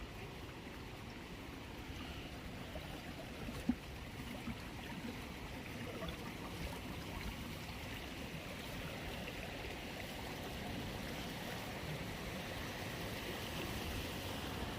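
Steady rush of water running in a stream, with one sharp click about four seconds in.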